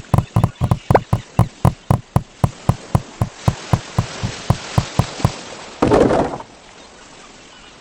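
A rapid series of short knocks, each with a brief pitched ring, about four to five a second and slowing slightly before stopping about five seconds in, followed by a short rushing burst of noise.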